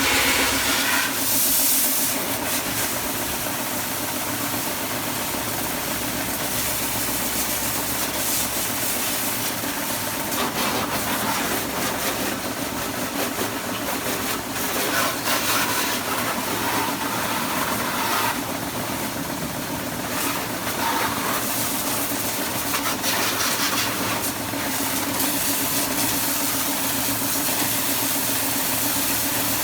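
Water spraying with a steady hiss over the even hum of a running motor, as when washing a motorcycle down with a powered washer.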